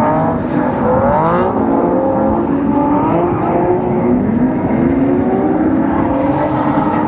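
Drift car engine revving hard under throttle, its pitch rising and falling as the driver works the throttle through the drift.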